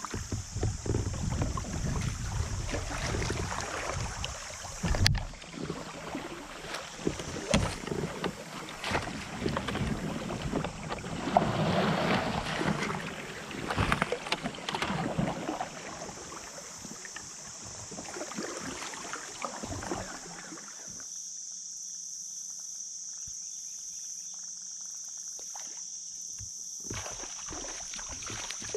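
Kayak paddling on a creek: irregular paddle strokes, splashing and moving water, with wind buffeting the microphone at first. About two-thirds of the way in it quietens to a steady faint hiss with a few light knocks as the boat glides.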